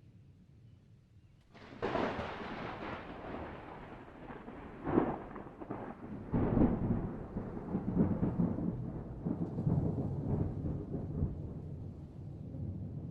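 Thunder: after a quiet start, a sudden clap about a second and a half in, then a long rolling rumble with two sharper cracks about five and six and a half seconds in, still rumbling at the end.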